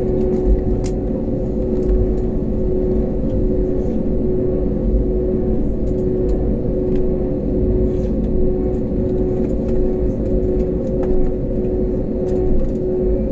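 Jet airliner's engines heard from inside the cabin during takeoff: a loud, steady rumble with a constant droning hum.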